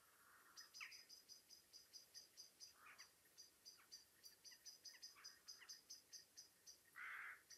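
Faint outdoor birdsong: a high, rapid chirp repeated about five times a second, with a few lower calls scattered through and a brief louder sound near the end.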